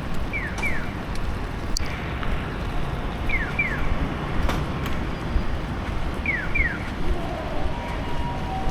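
Pairs of quick falling electronic chirps, repeating evenly about every three seconds, typical of a Japanese pedestrian crossing's audible signal. They sound over a steady hiss of rain and street traffic, and a steady hum comes in near the end.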